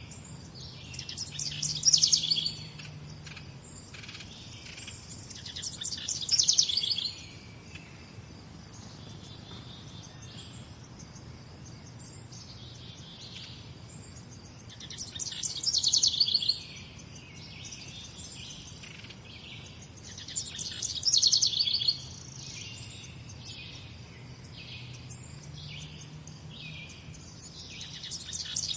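Birdsong: one songbird repeats a rapid trilled phrase about two seconds long that grows louder and then stops abruptly, five times at uneven gaps of a few seconds. Fainter chirps from other birds fill the gaps.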